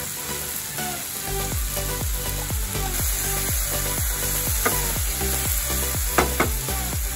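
Chopped onions and tomatoes frying and sizzling in a nonstick pan, stirred with a wooden spatula.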